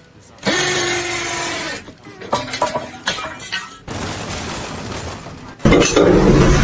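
A sudden loud crash of something breaking, lasting about a second and a half, followed by a scatter of sharp knocks and clatters like falling debris. A steady noise follows, then a louder, deeper noise starts abruptly near the end.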